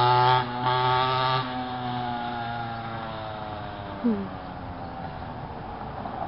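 Mini bike's small engine running hard, with brief dips in the throttle, then fading and slowly dropping in pitch as the bike moves away. A short falling squeak about four seconds in.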